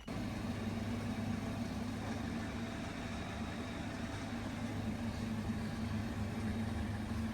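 BMW 330i running at a steady engine speed: a constant low hum with an even wash of noise over it.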